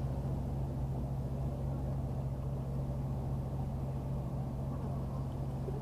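Steady low engine hum with no change in pitch or level.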